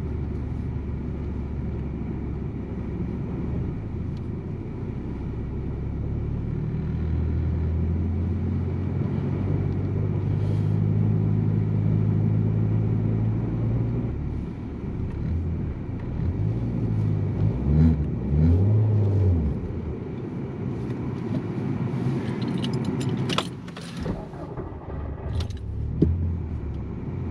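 Big-turbo Volkswagen Jetta engine pulling under load in snow. Its pitch climbs for several seconds, then it revs up and down a few times as the car struggles for grip and fails to make headway. Afterwards it runs lower, with a few sharp clicks near the end.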